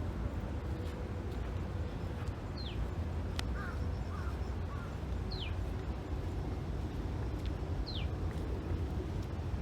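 A bird repeating a short, high falling whistle three times, about two and a half seconds apart, with a few fainter warbled bird notes, over a steady low rumble.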